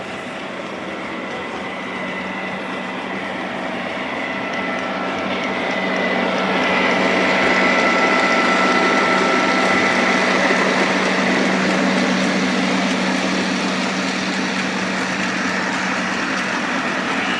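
Freight train approaching and rolling past, growing louder until about halfway and then holding steady, with a low steady hum and a high whine over the rumble of the cars.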